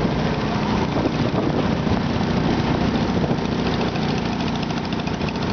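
Garden tractor engine running steadily.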